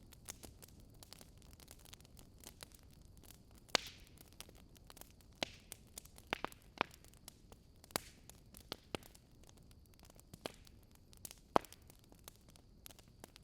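Wood campfire crackling: irregular sharp pops and snaps over a soft hiss, with a louder pop about four seconds in and another near the end.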